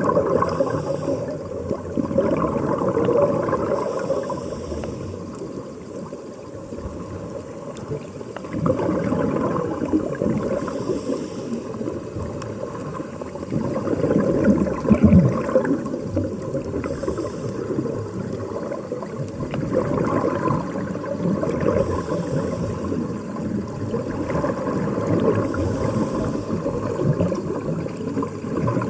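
Underwater bubbling and gurgling of air escaping from a diving helmet's air supply. It goes on throughout, swelling and easing every few seconds.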